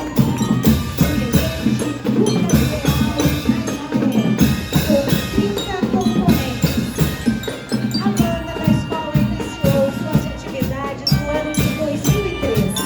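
Marching band playing in a parade: a dense, steady drum beat under a melody.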